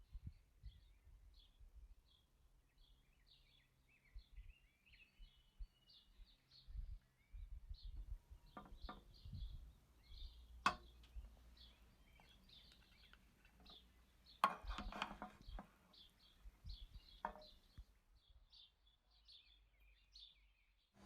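Small birds chirping faintly and continuously in short, rapid high calls, with a few sharp clicks or knocks around the middle.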